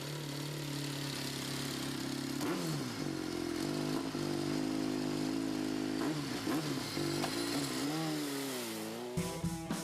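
Kawasaki ZX-RR MotoGP racing bike's inline-four engine running hard on track. Its pitch dips and climbs again briefly about two and a half seconds in, and wavers and falls near the end. Music with guitar and drums comes in just before the end.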